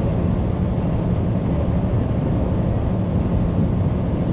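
Truck engine and road noise while driving: a steady low rumble with a constant engine hum.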